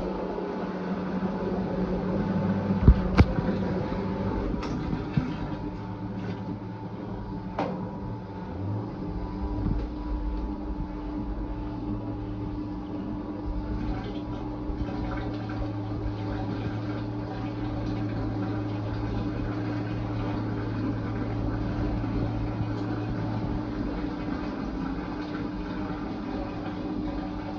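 Fisher & Paykel IW812 top-load washing machine running mid-cycle: water moving in the machine over a steady motor hum. A low part of the hum stops near the end.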